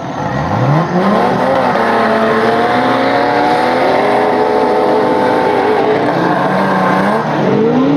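Off-road 4x4's engine revving hard. It climbs steeply in pitch in the first second or so, holds at high revs for several seconds, then drops and revs up again near the end.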